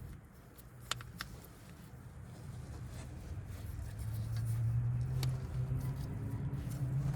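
Two light clicks, then a low engine hum that swells over a few seconds and holds steady.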